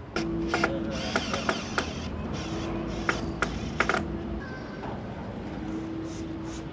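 Repair work: a run of sharp knocks in the first few seconds, with a steady hum that starts and stops about four times.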